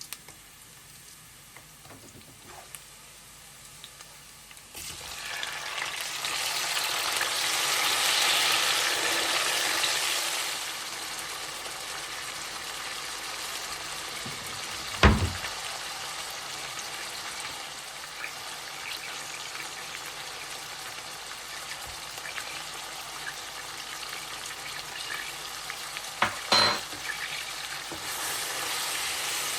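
Food frying in hot oil in a pan: the sizzle starts suddenly about five seconds in, is loudest for a few seconds and then settles to a steady sizzle. A sharp knock about halfway through and a couple of clinks near the end, like a utensil against the pan.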